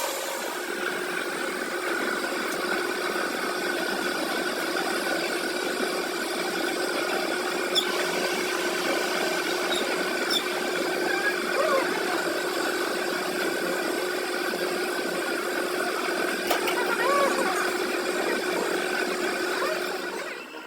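A machine running steadily with an even hum, with a few faint clicks along the way; it cuts off suddenly at the end.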